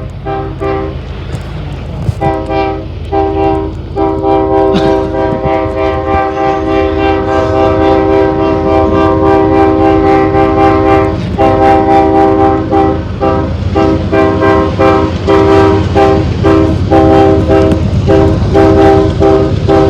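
Diesel locomotive air horn sounding a chord: a few short blasts, one long blast held for about seven seconds, then a rapid run of short blasts, over the low rumble of the approaching freight train, which grows louder.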